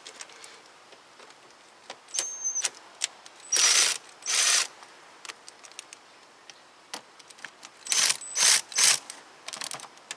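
A tool spinning loose the screws that hold the air box, in five short bursts of about half a second, two about four seconds in and three near the end, with scattered metallic clicks between.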